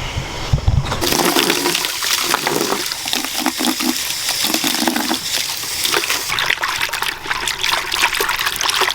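Water from a hose pouring and splashing into a water bucket, starting about a second in.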